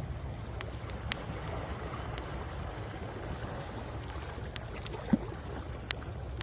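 Wood fire crackling, with a few sharp pops, the loudest about five seconds in, over the steady low rush of waves on the shore.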